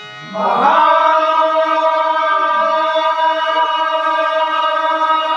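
A male bhajan singer glides up into one long note and holds it steady for about five seconds over a steady drone, part of a devotional call-out to the gods.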